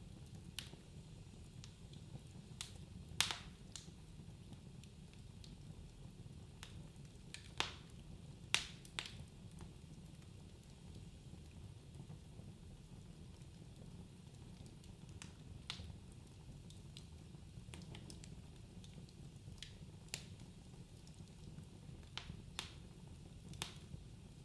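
Wood fire burning in a fireplace: irregular sharp crackles and pops, the loudest about 3 and 8.5 seconds in, over a steady low rumble of the flames.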